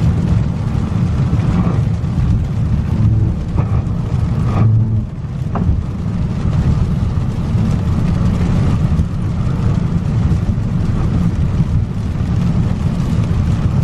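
Steady low rumble of a car driving on a rain-soaked, flooded road, heard from inside the cabin, with a few brief clicks about four to six seconds in.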